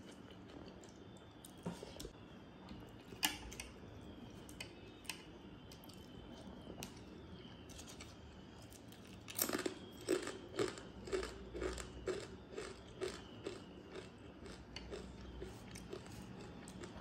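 Close-up eating sounds: soft wet clicks and squishes of fingers mixing watery rice, then, about halfway through, a fast run of loud crunches as a crisp fried wafer is bitten and chewed, fading over several seconds.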